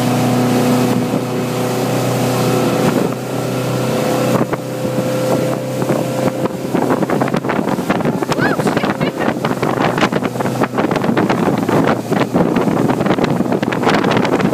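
Motorboat engine running steadily. About halfway through, its steady hum fades under loud, gusting wind noise on the microphone.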